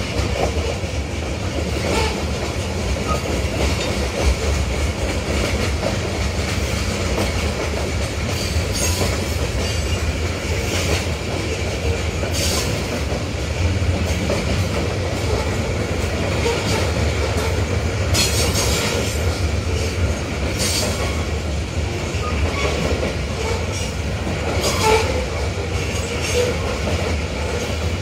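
Freight train of tank cars and covered hoppers rolling past: a steady low rumble of steel wheels on rail, with brief sharp high-pitched wheel noises breaking through several times.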